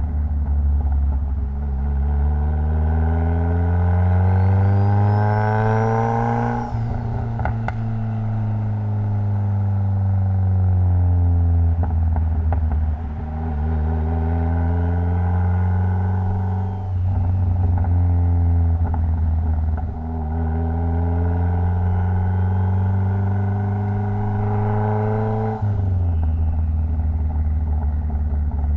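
Mitsubishi Lancer Evolution X's turbocharged 2.0-litre four-cylinder engine pulling through the gears: the engine note climbs in pitch, drops sharply at each gear change about 7, 17, 20 and 26 seconds in, and sinks for a few seconds after the first change as the car slows, over a steady deep drone.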